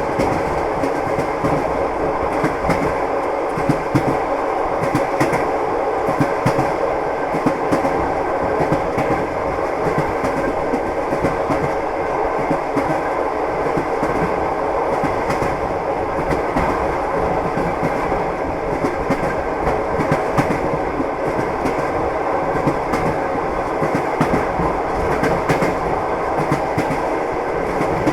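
A moving train: the wheels clack over rail joints on top of a steady rumble of the running carriage.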